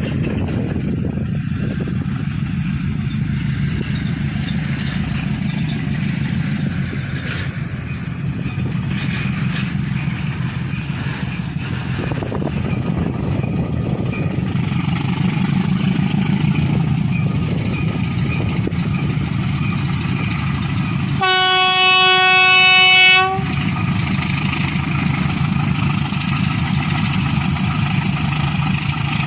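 A pair of GE U13B diesel locomotives hauling loaded ore wagons, the engines running steadily under the noise of the rolling train. About two-thirds of the way through, the locomotive horn sounds one steady blast lasting about two seconds.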